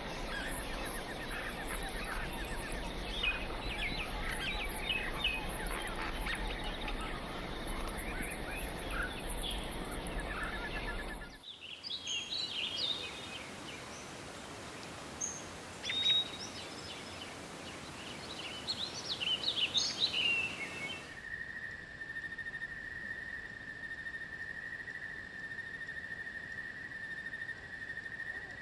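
Forest ambience: a dense chorus of many birds chirping over a steady hiss, cutting about eleven seconds in to sparser chirps and whistled calls. About two-thirds of the way through it cuts again to a single steady, high-pitched insect drone.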